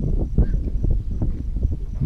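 Wind rumbling on the microphone, with scattered soft knocks and rustles.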